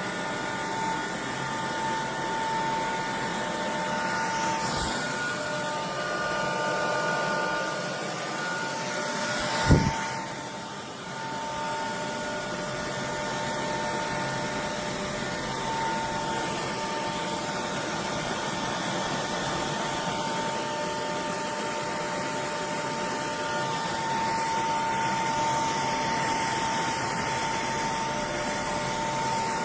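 Cordless stick vacuum's motor running steadily with a constant high whine over a rushing hiss. A sharp knock about ten seconds in, and a lighter click a few seconds before it.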